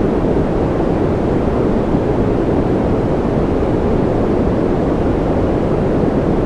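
Steady, unchanging sleep white noise, a deep rushing sound with most of its energy low and little hiss on top, with no rhythm or tones in it.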